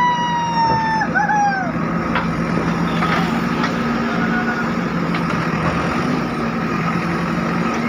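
JCB 3DX backhoe loader's diesel engine running steadily, with a few sharp knocks. A high wavering call or horn-like tone sounds over it in the first couple of seconds.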